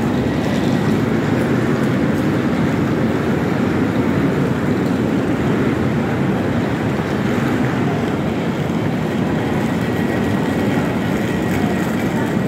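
Train standing at the platform with its doors open, humming steadily with a faint high whine above the hum.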